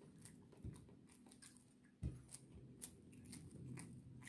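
Faint chewing of fried rice with soft, scattered mouth clicks, and fingers gathering rice on a plate; a dull knock about two seconds in.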